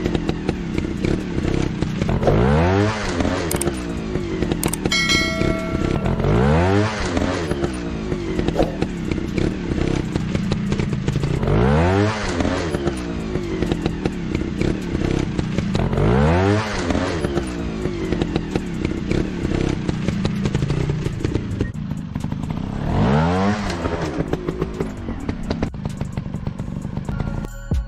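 Motocross bike engines running, with the pitch climbing sharply in a rev about every four to five seconds over a steady engine drone.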